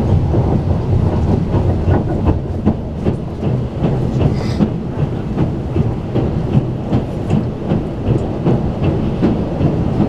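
Strizh Talgo express train running at speed, heard from inside a carriage: a steady rumble with the regular clickety-clack of the wheels over rail joints, and a brief hiss about four and a half seconds in.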